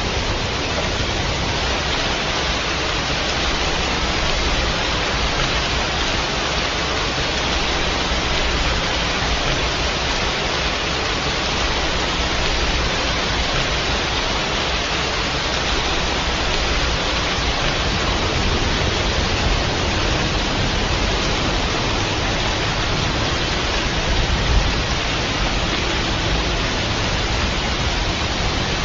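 Steady heavy rain, an even unbroken hiss of falling water, with one brief low thump about three-quarters of the way through.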